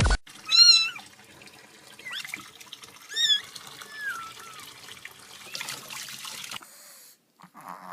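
Cat mewing in about five short, high-pitched calls with sliding pitch, over a steady hiss.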